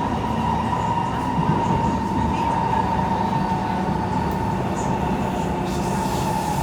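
Kawasaki C151 electric multiple unit running between stations, heard from inside the carriage: a steady rumble with a steady whine.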